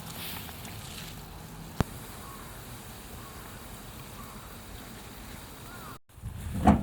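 Steady outdoor ambience with a low hum, one sharp snap about two seconds in and a few faint chirps. After a short cut near the end, louder knocking sounds begin.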